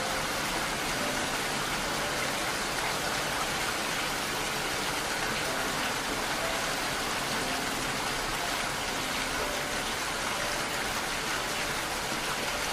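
Steady heavy rain, an even hiss of falling water. A few faint short tones sound now and then underneath it.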